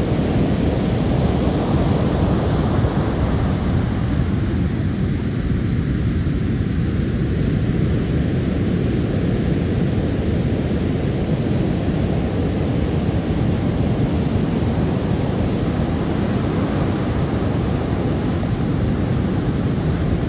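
Steady low roar of big ocean surf mixed with wind rumbling on the microphone, with no distinct breaks or crashes standing out.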